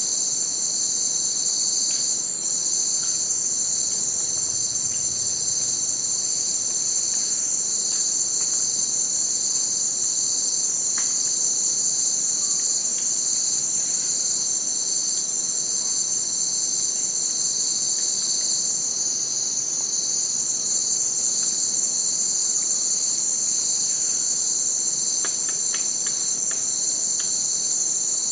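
Steady, high-pitched chorus of insects trilling without a break, several shrill tones layered together, the lowest one pulsing evenly.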